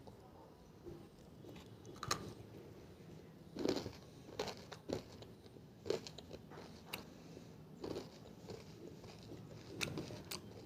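Close-up crunching as a person bites and chews pieces of banslochan (tabashir), the hard chalky bamboo silica cracking in the mouth. About eight sharp crunches come at irregular intervals, the loudest a little under four seconds in.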